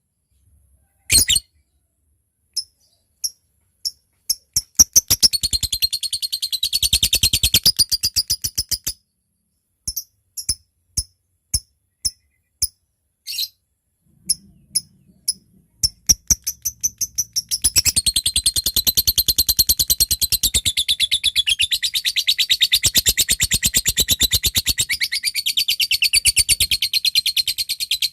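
Lovebird calling: single sharp chirps about a second apart (the 'ticking' call) break into a rapid chattering trill lasting a few seconds. After a pause come more single chirps, then a second, longer chattering trill (the long 'ngekek').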